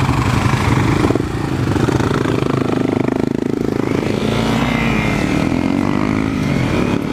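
Dual-sport motorcycle engine running on a dirt road, its pitch rising and falling in the second half as the throttle changes, with wind noise over the microphone.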